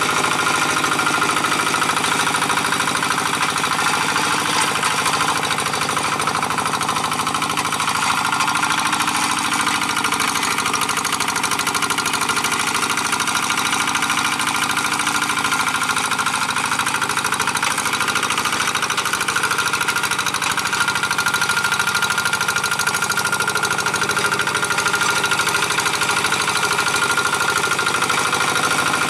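Two-wheel hand tractor's engine running steadily under load as it pulls a moldboard plow through dry paddy soil, a fast, even beat at a constant level.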